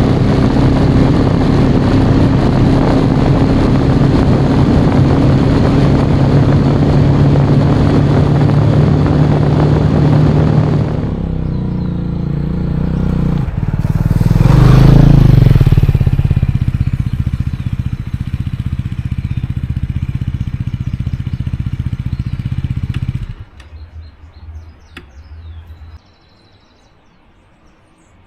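Motorcycle engine running steadily under way, with a rushing noise over a steady low engine note. It drops in level about eleven seconds in, swells briefly a few seconds later, then cuts off abruptly, leaving only faint sound with a few bird chirps.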